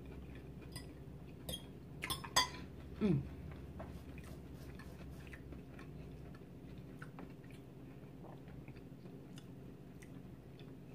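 Close-miked mouth sounds of someone chewing salad: soft scattered clicks and smacks, with a few louder ones in the first couple of seconds and a short falling vocal sound about three seconds in.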